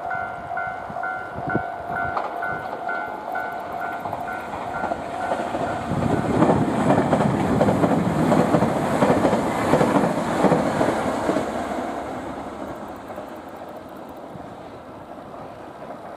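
A level-crossing warning bell rings with a steady repeating ding. Then a six-car Tobu 500 series Revaty electric express train passes, loudest from about six to twelve seconds in, and fades away near the end.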